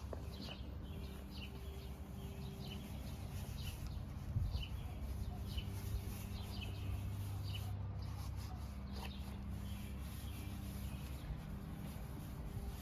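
Birds chirping in short repeated calls over a steady low hum.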